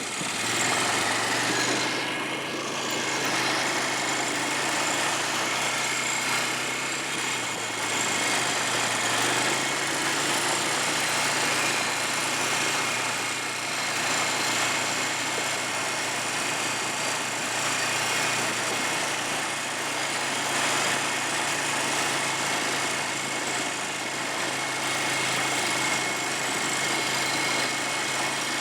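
ATV's small engine running steadily, its pitch wavering up and down a little, over a continuous rushing noise.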